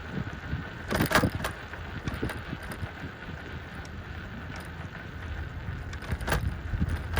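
Bicycle riding over a trail: wind buffeting the microphone over a steady low rumble of tyres on the ground. Sharp rattling knocks come about a second in and again near the end.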